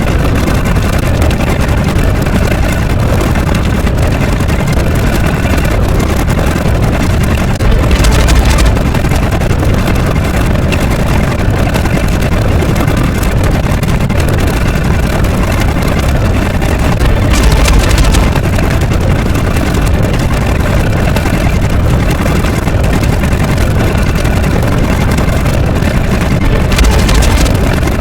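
A loud, steady, low engine-like rumble, with a brief louder surge about every nine seconds.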